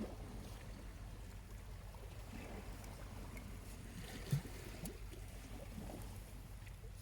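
Small waves lapping at the shore over a steady low rumble, with a charcoal fire giving scattered faint crackles. One louder thump comes about four seconds in.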